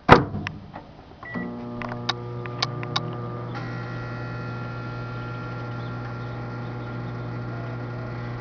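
A loud clunk, then about a second later a microwave oven starts running with a steady mains hum. A few sharp clicks come over the next two seconds, and the hum grows fuller about three and a half seconds in.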